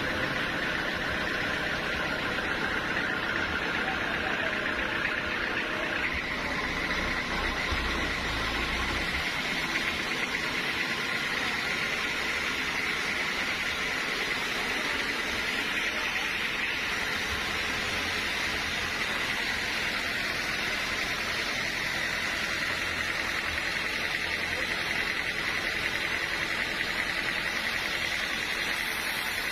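Sawmill machinery running steadily with a constant high whine over a low hum, shifting slightly about six seconds in.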